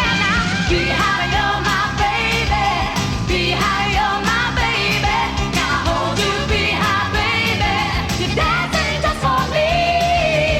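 A woman singing a 1960s pop/rock-and-roll song over a band, her voice rising and falling, then holding one long note near the end.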